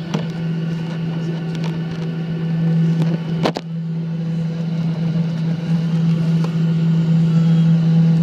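Royal Air Maroc airliner's engines droning steadily, a strong low hum with several steady higher tones, slowly growing louder; a sharp click about three and a half seconds in.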